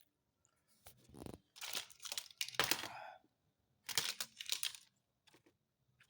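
Several short, irregular bursts of rustling and crinkling handling noise, with quiet gaps between them.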